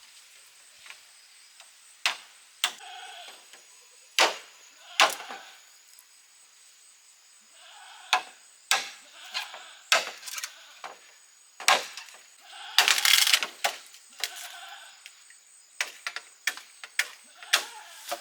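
Goats bleating in short cries, mixed with a dozen or so sharp loud knocks spaced unevenly, with the loudest cluster about two-thirds of the way in.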